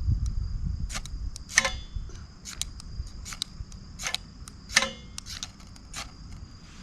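A ferrocerium fire-starter rod scraped with a metal striker to throw sparks into tinder: a series of irregular sharp metallic scrapes and clicks, two of them longer with a ringing rasp, as the fire refuses to catch.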